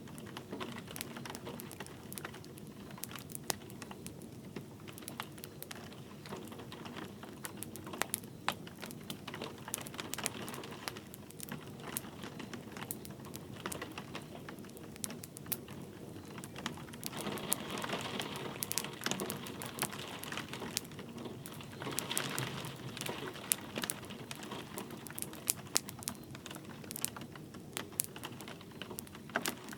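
Wood fire crackling with frequent sharp irregular pops, over a steady patter of light rain; the hiss swells briefly twice in the second half.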